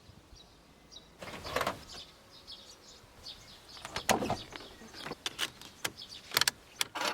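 Rustling followed by a run of sharp clicks and knocks, with birds chirping faintly in the background.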